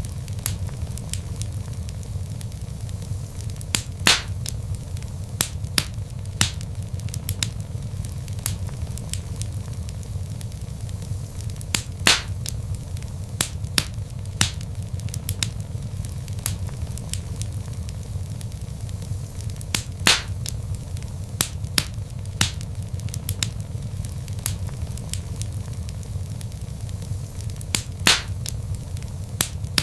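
Log fire crackling: a steady low rumble of flames with frequent sharp pops and snaps of burning wood. A few louder pops stand out, spaced several seconds apart.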